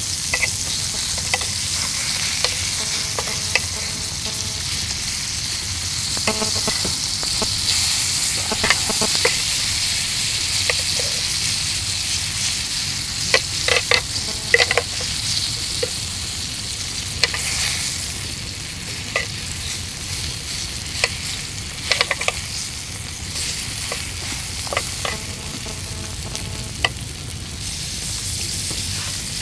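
Food sizzling steadily in margarine on a ridged grill pan over a portable gas stove. Sharp clicks and light knocks as the pieces are handled come in clusters about halfway through and again about three-quarters through.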